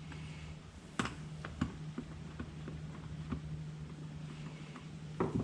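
A screw being worked out of a gourd birdhouse with a hand tool: scattered light clicks and knocks of the tool and the gourd being handled, with sharper knocks about a second in and a cluster near the end. A steady low hum runs underneath.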